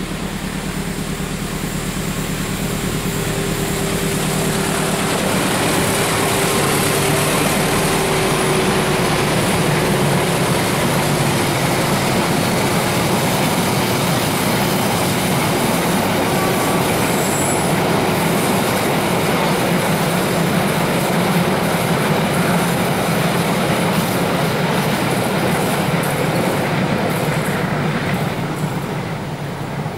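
A train passing close by, its wheels running on the rails in a steady loud rush that builds over the first few seconds and fades near the end, with a couple of brief high wheel squeals.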